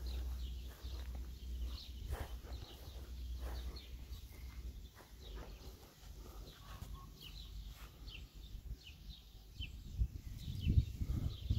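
Small birds chirping in quick, scattered short notes, over a low rumble that grows louder near the end.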